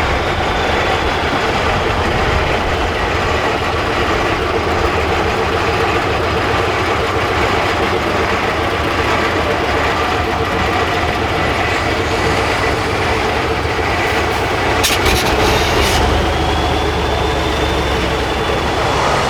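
Heavy 8x8 Tatra truck's diesel engine running, a loud steady rumble, with a few sharp clicks or knocks about fifteen seconds in.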